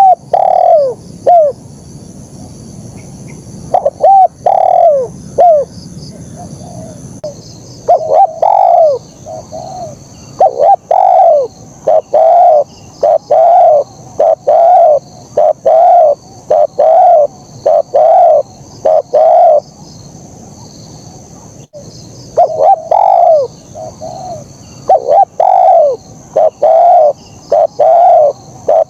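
Spotted dove (terkukur) cooing: a long run of short coo notes that dip in pitch, about one a second, with a pause of a couple of seconds about two-thirds of the way through. A faint, steady, high-pitched chirring runs behind it.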